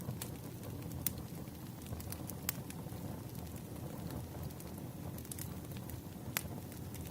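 Wood fire burning with a steady low rush of flame and irregular sharp crackles and pops from the burning logs, a few louder pops standing out.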